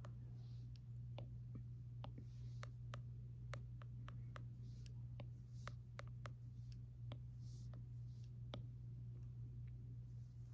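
Stylus writing on an iPad screen: irregular light taps, several a second, and short soft scratchy strokes, over a steady low room hum.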